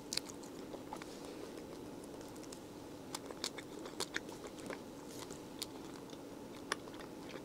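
A person chewing a mouthful of soft, chewy pretzel bread close to the microphone: scattered quiet wet mouth clicks over a steady low background hum.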